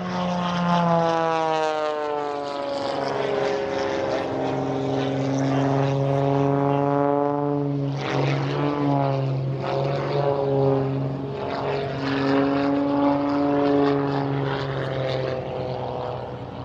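Light propeller airplanes flying past, their engine and propeller drone sliding down in pitch as each goes by. A second plane's pass begins about halfway through, over a steady low engine drone.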